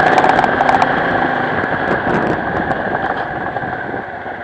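Motorcycle engine running steadily, with a few short clicks and rattles in the first couple of seconds; it eases off a little about three seconds in.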